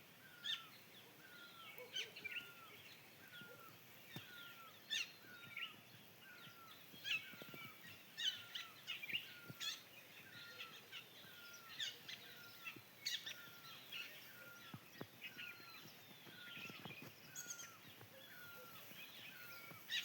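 Birds calling and chirping, faint, over a light outdoor background hiss. One bird repeats a short, hooked note about once a second throughout, while others add quick higher chirps.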